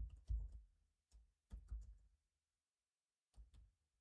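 Faint computer keyboard and mouse clicks in three short clusters, each with a dull knock on the desk under it.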